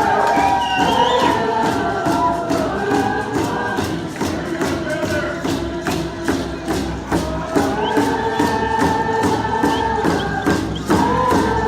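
Coast Salish song sung by a group of voices together over a steady beat of hand drums, about three to four beats a second.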